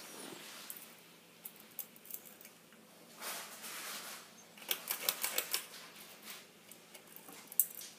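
Irregular light clicks and rustling, with a cluster of quick clicks about five seconds in and one sharp click near the end.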